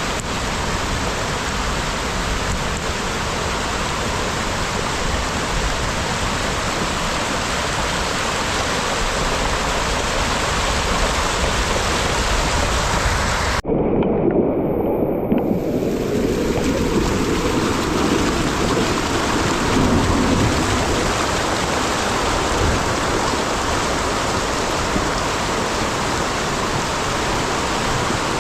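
Loud, steady noise of heavy water, such as rain or floodwater. About halfway through, the hiss suddenly drops away and a low rumble takes over, and then the hiss builds back over a couple of seconds.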